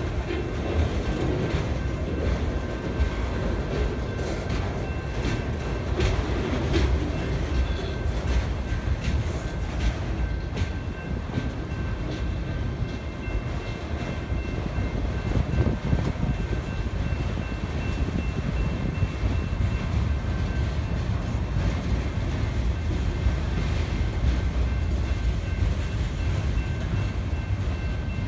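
A freight train of autorack cars rolling past: a steady low rumble of wheels on rail, with scattered clicks and clanks. A faint, steady high ringing tone runs over it.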